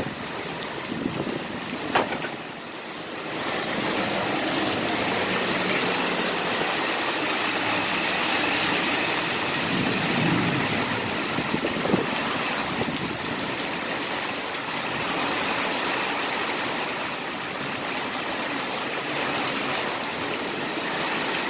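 Heavy rain pouring down on a vehicle: a steady rushing hiss that grows louder about three and a half seconds in, with a vehicle's engine running underneath and a sharp click about two seconds in.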